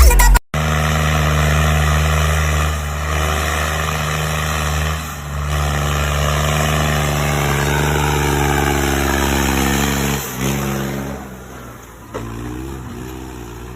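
A vehicle engine running steadily. Its pitch slides down about two-thirds of the way through, and it goes quieter near the end.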